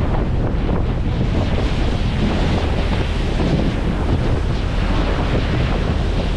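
Wind buffeting the microphone on a moving ferry, with the rush of water and a steady low rumble underneath.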